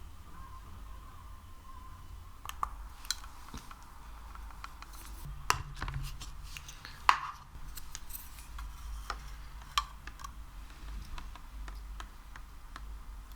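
Sticky material handled and squeezed close to the microphone for ASMR: scattered sticky clicks and pops, a few sharper snaps among them, the loudest about seven seconds in, over a steady low hum.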